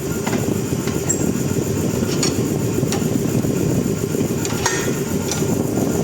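An engine running steadily, with a few light metallic clicks and taps over it.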